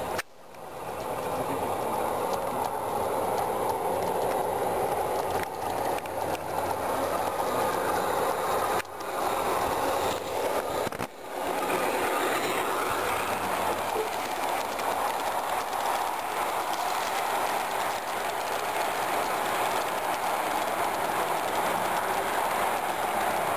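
Miniature train running steadily along its track, a continuous rolling wheel-on-rail noise with some clickety-clack. The sound drops out briefly three times: just after the start, and about 9 and 11 seconds in.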